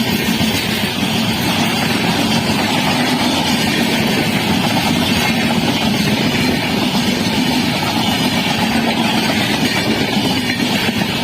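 Train running past close by: steady, loud wheel and rail noise.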